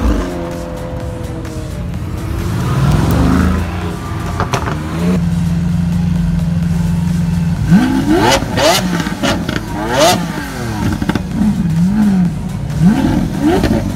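A McLaren 720S's twin-turbo V8 pulls away. Then a Lamborghini Aventador SV's V12 settles into a steady idle and, from about eight seconds in, is revved in a series of quick blips, the revs shooting up and falling back each time.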